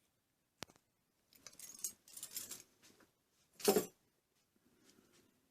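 Small metal parts of a car door lock cylinder clicking and scraping as a bent-paperclip hook is worked into it to pull out a pin. There is one sharp click about half a second in, scraping and clinking after it, and a louder metallic clatter near four seconds.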